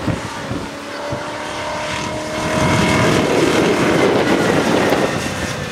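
Engine of a Land Rover-based competition off-road car working hard as it drives across a grass slope: a steady pitched engine note at first, then getting louder and rougher about halfway through.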